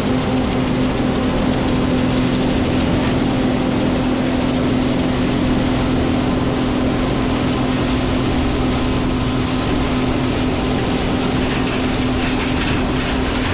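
John Deere 9560 combine running steadily while harvesting corn: an even mechanical din with a strong steady hum.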